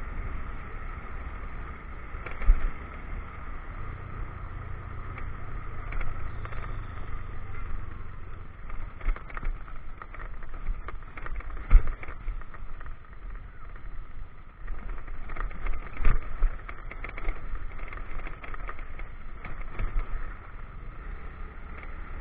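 A motorcycle engine running steadily while the bike is ridden, with wind on the microphone. A few sharp knocks break through, the loudest about twelve seconds in, as the bike jolts over a rough road.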